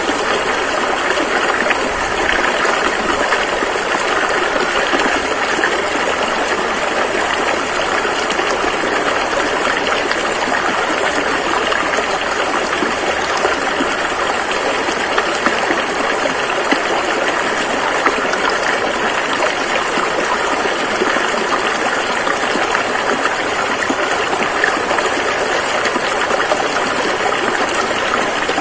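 River water rushing steadily over rocks: a constant, dense splashing noise without breaks.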